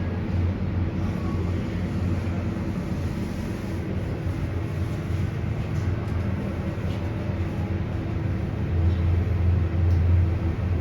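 Elevator car travelling upward, with a steady low hum and rumble from the car and its drive. The hum swells louder near the end.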